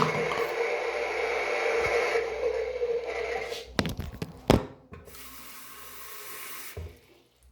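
Toy washing machine's small motor whirring with a steady hum, which stops about halfway through. A few sharp clicks and knocks follow, then a brief high hiss.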